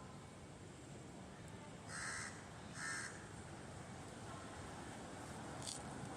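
Two short, harsh bird calls less than a second apart, then a brief sharp high call near the end, over a steady background hiss.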